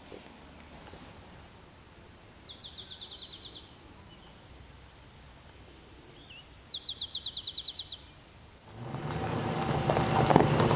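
A songbird sings two phrases, a few high notes then a fast trill of about ten notes, over a steady high insect drone. Near the end a much louder, steady low mechanical hum with a clattery edge starts up.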